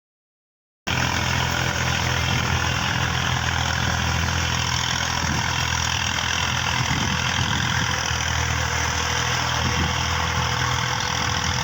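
Tractor engine running steadily at an even idle, starting abruptly about a second in.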